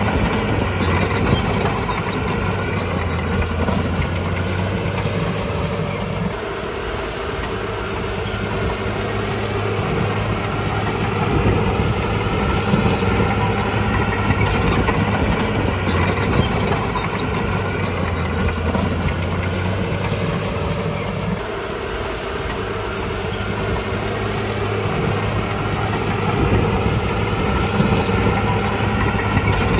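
Komatsu bulldozer's diesel engine running under changing load, its pitch and level dropping about six seconds in and again around twenty-one seconds, then climbing back. A few sharp clanks are heard over it.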